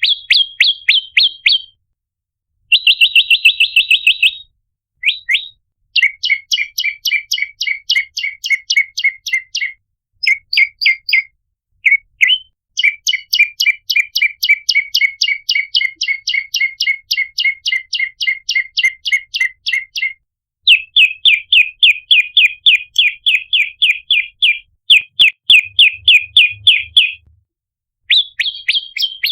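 Prenjak lumut (red-headed prenjak) giving its loud chattering lure call: runs of sharp, rapidly repeated chip notes, about five or six a second, broken by short pauses.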